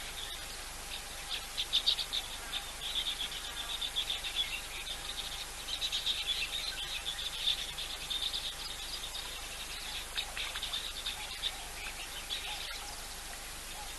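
Outdoor chorus of insects and small birds: dense, high-pitched chirring and twittering that comes in waves, fuller in the first half and around the middle and thinning near the end. A faint steady hum runs underneath.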